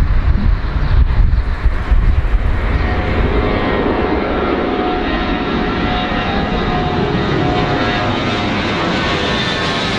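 Airplane engines, a loud low rumble for the first few seconds that settles into a steady whine of several tones. One high tone slowly falls in pitch near the end, as an aircraft passing by.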